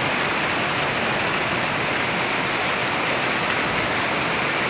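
Heavy rain falling steadily: an even, unbroken hiss of the downpour.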